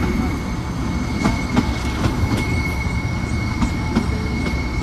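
Kangra Valley Railway 2 ft 6 in narrow-gauge passenger train running, heard from aboard a coach: a steady rumble of wheels on track with a few irregular knocks from the rail joints and a steady high whine above it.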